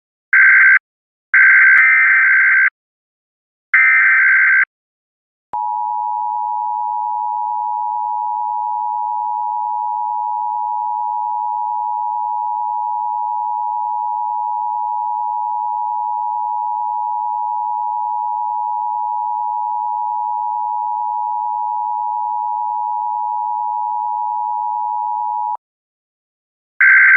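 Electronic beeps, four loud ones of uneven length, then a steady electronic tone of two close notes, like a telephone dial tone, held for about twenty seconds before it cuts off.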